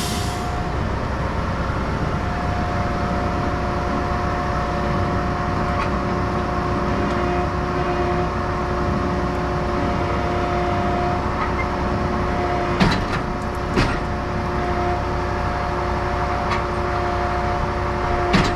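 Truck-mounted stone slinger running steadily, with two short knocks about a second apart two-thirds of the way through.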